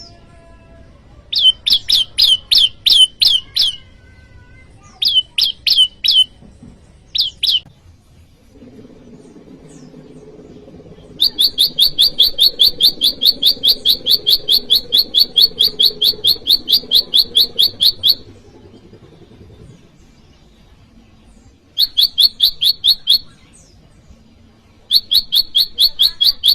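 Prenjak lumut songbird calling: loud, sharp, evenly repeated chip notes in several bouts. The longest is a rapid run of about five notes a second lasting some seven seconds, with shorter bursts before and after. It is a challenge call used to provoke a rival bird.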